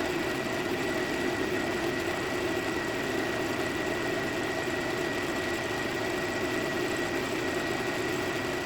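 Head resurfacing machine running steadily with a constant high whine, taking a light skim cut across the deck of a 2014 Duramax cylinder head to clean up gouged factory machining marks.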